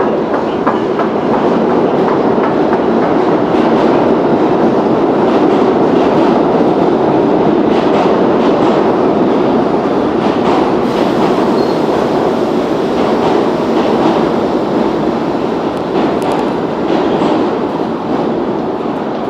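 New York City subway train running along the platform, with a loud steady rumble of wheels on rail and scattered clicks as the wheels cross rail joints.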